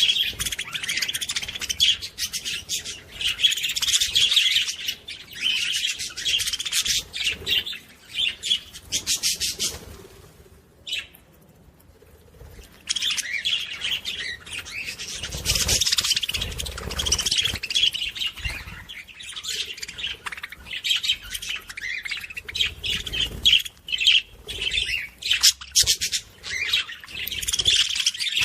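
Several small pet parrots chirping and chattering rapidly and continuously, with a brief lull about ten seconds in.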